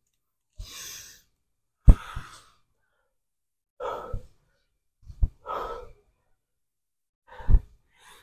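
A man's heavy breathing: about five hard, breathy exhales a second or two apart. Three sharp low knocks fall among them, the loudest about two seconds in.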